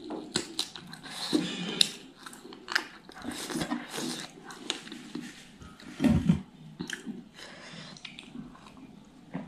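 Close-miked mouth sounds of eating fatty smoked pork by hand: chewing with irregular wet smacks, lip and finger-licking clicks. There is a louder low thud about six seconds in.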